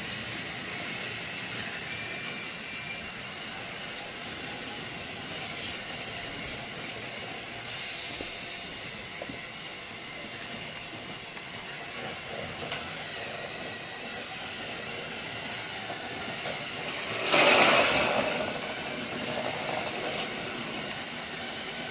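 Steady running sound of a train, with a loud burst of noise lasting about a second late on.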